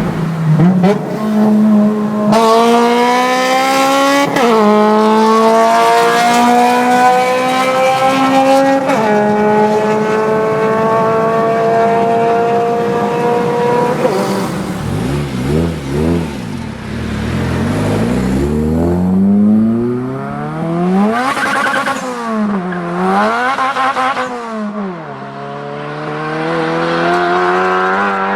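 Honda K20 2.0-litre four-cylinder engine pulling hard through the gears, its pitch climbing steadily and dropping at each upshift, about 2, 4, 9 and 14 seconds in. In the second half the revs sweep up and down several times before settling into a steady pull near the end.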